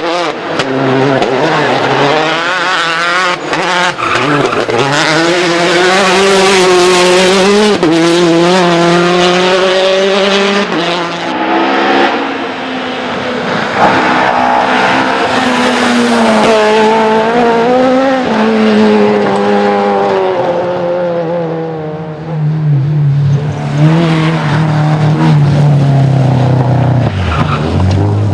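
Rally cars at full stage speed, engines revving hard up through the gears and dropping on downshifts and braking, with tyre squeal in the corners.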